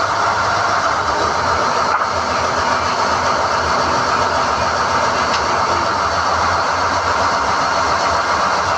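SDH-1600 core drilling rig running steadily while NQ drill rods are hoisted out of the hole: a loud, even machine noise with no breaks.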